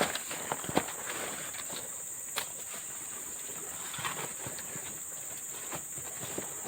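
Steady high-pitched drone of forest insects, with scattered light knocks and rustles, several in the first second and a few more later.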